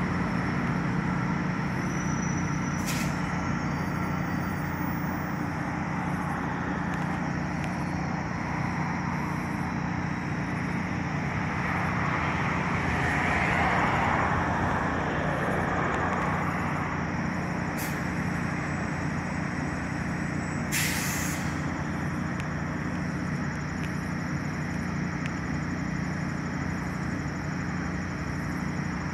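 Steady low hum and rumble of a diesel commuter train standing at the station, with a swell of noise about halfway through and a few short hisses of air.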